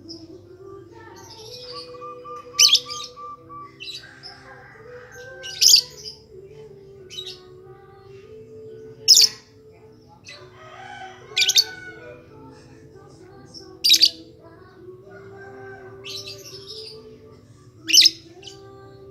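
Lovebird giving loud, shrill, high-pitched calls, six of them a few seconds apart, with softer chirps between. This is a lure recording meant to set other lovebirds calling.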